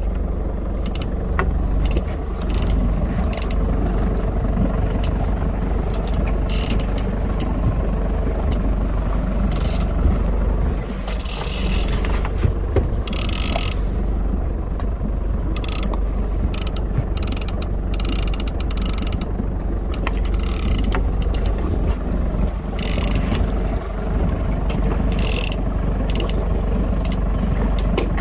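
Heavy fishing reel being cranked hard against a big bluefin tuna, its gears and clicker rasping in irregular spurts, over a steady low rumble.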